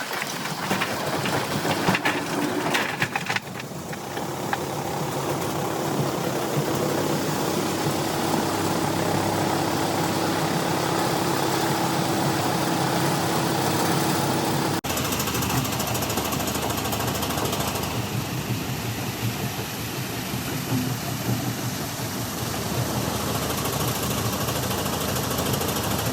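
Heavy crusher-plant machinery running with a dense, steady mechanical noise and a steady hum; the sound drops out for an instant about 15 seconds in, then carries on.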